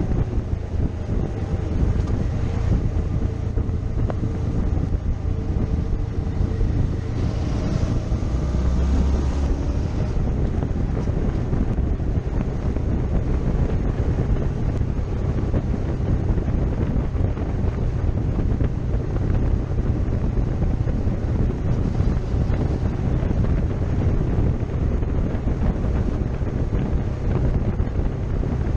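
Wind buffeting a motorcycle-mounted microphone while riding, with the motorcycle's engine running underneath. Engine tones show through for the first ten seconds or so, with a brief louder hiss around eight seconds in.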